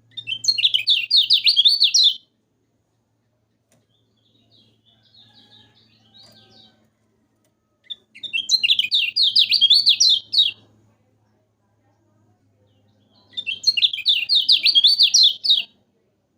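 Kecial kuning (lemon-bellied white-eye) singing three loud, fast chattering phrases of about two seconds each, made of quick high notes that sweep up and down, with a softer twittering phrase in between. It is a 'gacor' master song played to get caged birds singing.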